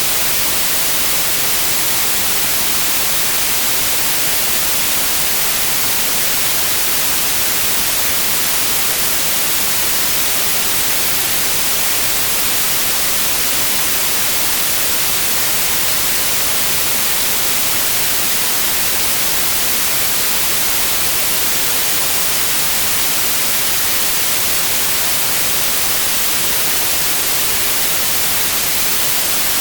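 Steady white noise: an even, loud hiss with no change, brightest in the high end.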